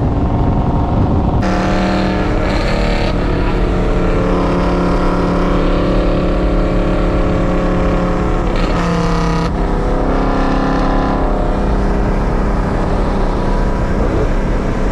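A car engine running loud and steady, cutting in abruptly about a second and a half in. Near nine seconds there is a brief rise and change in pitch, then it settles to a steady, lower note.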